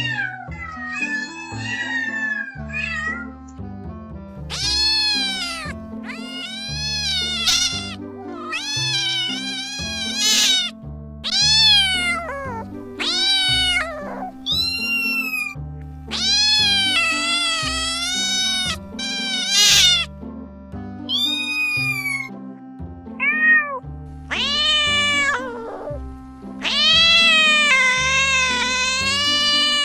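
Cats meowing over and over, about a dozen separate drawn-out meows that rise and fall in pitch, the last one long. A background music track plays underneath.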